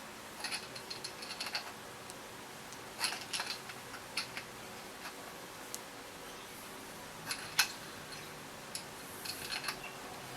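Metal hand tools clicking and clinking against a motorcycle fork during reassembly: several short bursts of quick metallic clicks, with one sharper click about three quarters of the way through.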